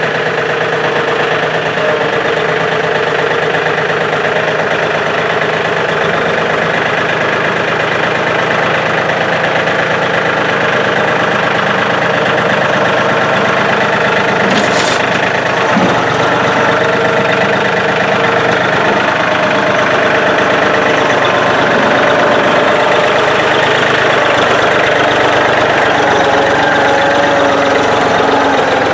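Yanmar diesel engine of a John Deere compact tractor running steadily. A brief click sounds about halfway through.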